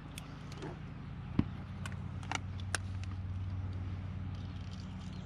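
A steady low hum, like a small motor running, with several sharp clicks and knocks over it, the loudest about a second and a half in.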